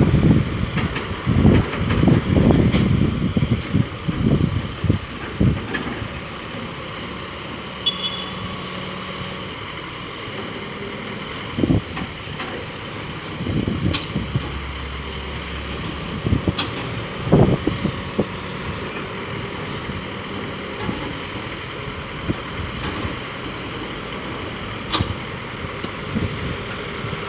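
Heavy diesel road-construction machinery and traffic running steadily, with low buffeting in the first few seconds and a few short knocks later on.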